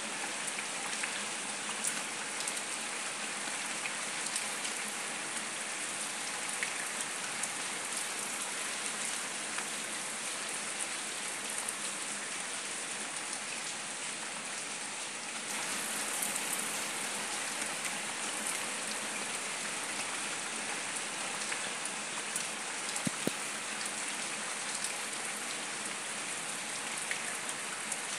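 Steady rain falling on leaves and wet paving, an even hiss with scattered sharper drop ticks, a little louder from about halfway through.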